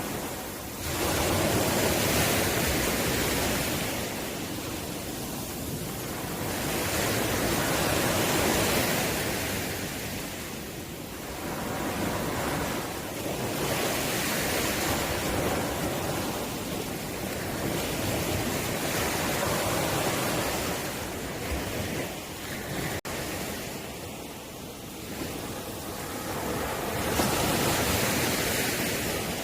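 Ocean waves breaking and washing on a shore, the surf swelling and easing in long surges every several seconds.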